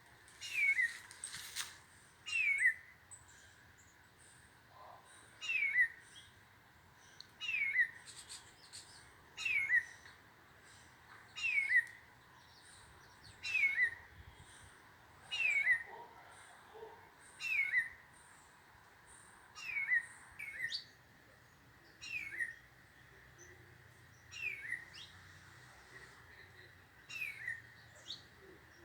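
Rufous-bellied thrush calling: a short, downward-slurred note repeated about every two seconds, sometimes given twice in quick succession.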